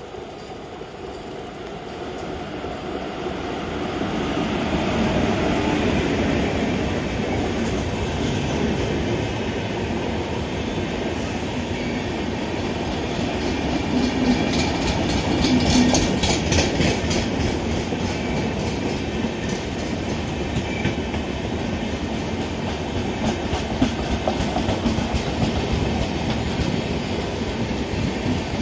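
Express passenger train passing at full speed behind a WAP-4 electric locomotive. It grows louder over the first few seconds as the locomotive nears and goes by, then the coaches keep up a steady rush of wheel-on-rail noise with rapid clickety-clack over the rail joints.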